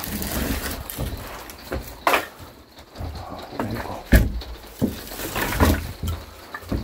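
Irregular knocks and thumps, a second or two apart, the loudest about four seconds in, with rustling handling noise between them.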